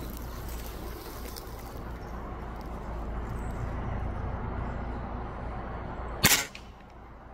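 Steady hiss of heavy rain falling on a corrugated barn roof, with a low rumble underneath. A single sharp knock about six seconds in is the loudest sound, and the rain is quieter after it.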